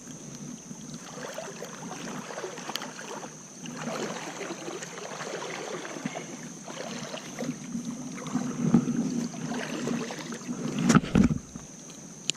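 River water sloshing and splashing in irregular bursts, with a few louder splashes or knocks near the end.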